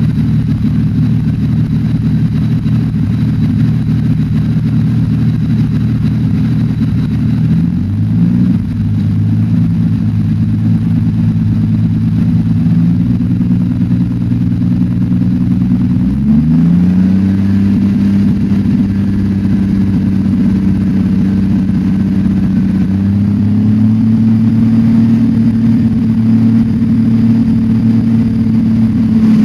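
An engine running with a misfire. Its speed steps up twice, about eight seconds in and again about sixteen seconds in, then holds steady.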